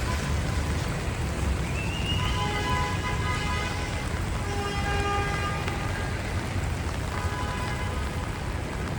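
Rainy city street ambience: a steady traffic rumble under the hiss of rain, with three short pitched tones over it, the first with a brief upward glide.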